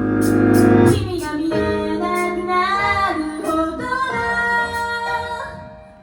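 A woman singing a pop song over backing music, the music swelling in the first second and dying down near the end.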